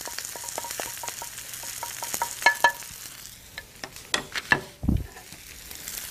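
Vegetables and spices frying in ghee in a wok: a light, steady sizzle with a string of clicks and knocks, and a short low thump about five seconds in.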